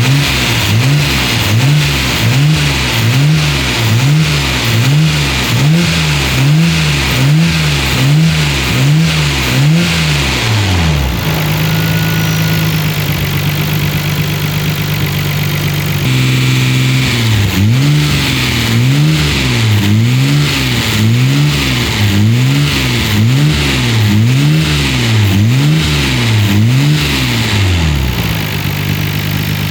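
Nissan Skyline GT-R (BCNR33) twin-turbo RB26DETT straight-six through an A'PEXi R95 full-titanium exhaust, blipped over and over, about one rev a second, each one rising and falling back. It drops to a steady idle for a few seconds near the middle, then the blips start again and it settles to idle near the end.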